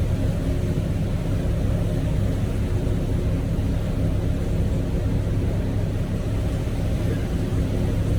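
Motorboat engine running steadily under way, a constant low hum.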